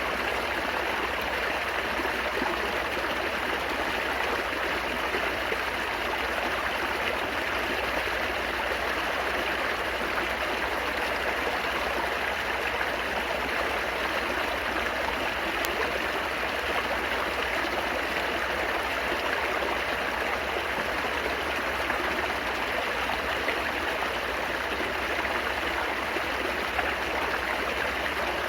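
Running water babbling and trickling, as in a small stream, steady and unbroken.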